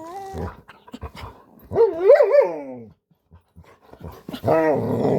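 Bernedoodle whining during brushing, in three wavering, up-and-down calls: a short one at the start, a longer one about two seconds in, and another near the end. The whines show his dislike of the brush.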